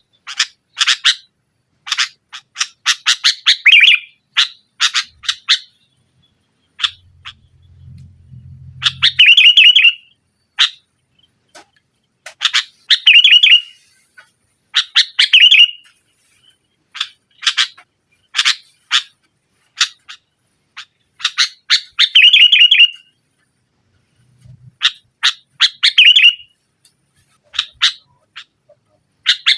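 Sooty-headed bulbul (kutilang) calling loudly in repeated bursts: quick runs of sharp notes that each end in a chattering flourish, every two seconds or so. These are the bird's agitated, challenging calls at a rival.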